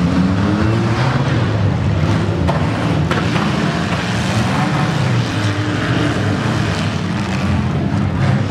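Several demolition derby cars' engines running and revving together in a loud, steady rumble, with a couple of sharp knocks from cars colliding about two and a half and three seconds in.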